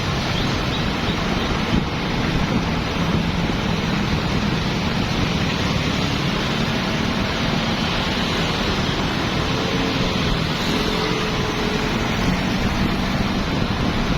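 Dense street traffic of motorbikes, cars and tuk-tuks: a steady wash of engines and tyre noise with a low engine hum, and wind on the microphone.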